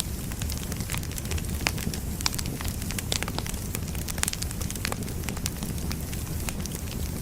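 Firewood burning with a steady low rumble and irregular sharp crackles and pops, a few each second.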